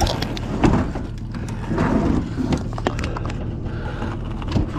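Scattered knocks and clunks of a heavy piece of scrap being handled and shifted, a few sharp hits spread irregularly over a low rumble.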